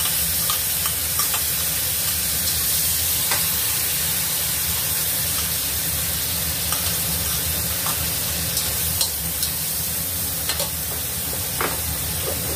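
Food sizzling steadily as it fries in a hot stainless steel wok, with a metal spatula scraping and clicking now and then as the food is pushed in and stirred.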